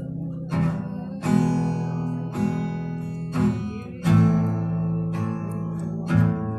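Acoustic guitar strummed without singing: about six slow chord strokes, each left to ring out before the next.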